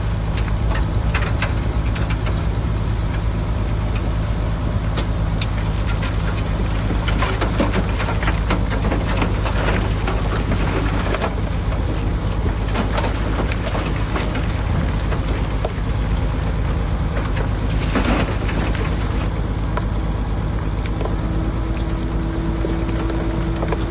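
Heavy diesel engine of a Shantui DH17C3 bulldozer running steadily under work, over dense, constant crackling and clatter. A faint steady tone joins near the end.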